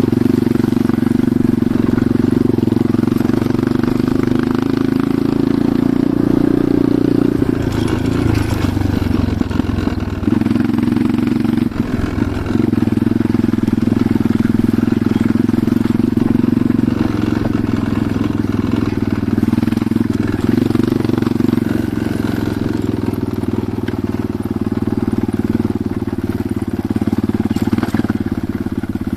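Enduro motorcycle engine running steadily under way, with a few brief changes in pitch and a short knock around the middle.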